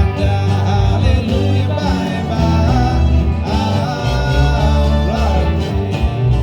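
Country-style band music with acoustic guitar over strong bass notes and a wavering lead melody line, in an instrumental stretch between sung verses.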